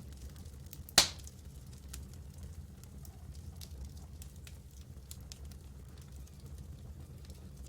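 Campfire crackling: scattered small pops over a low steady rumble, with one loud sharp pop about a second in.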